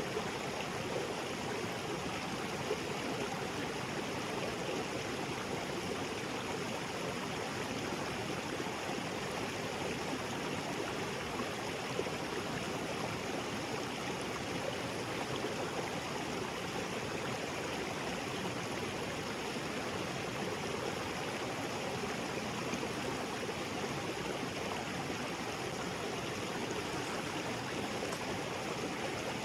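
Small waterfall and creek water running over rocks: a steady, even splashing and rushing of falling water.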